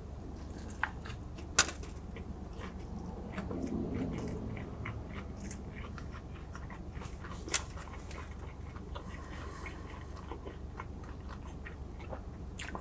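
A man chewing a mouthful of fried chicken sandwich on a soft bun, with many small wet mouth clicks and a couple of sharper ones.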